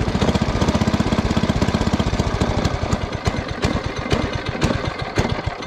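The Scat Kat's original small engine idles with rapid, even firing. About halfway through it slows to a few widely spaced last strokes as it dies out.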